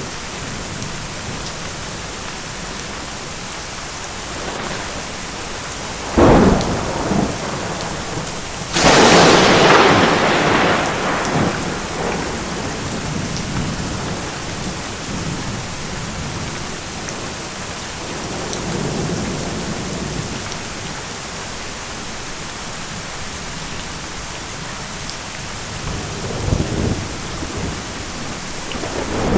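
Steady rain with thunder: a sharp crack about six seconds in, a loud crash about nine seconds in that rumbles away over a few seconds, softer low rumbles later, and another crack right at the end.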